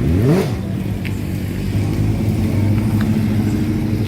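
A motor vehicle engine running steadily, with a quick rev rising sharply in pitch right at the start.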